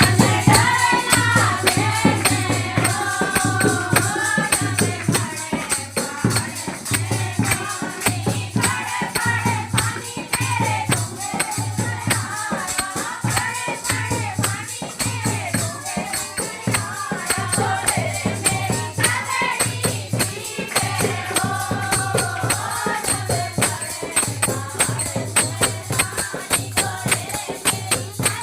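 Music: a Hindi devotional song to Shiva (Bhole), a voice singing over a steady beat with jingling, tambourine-like percussion.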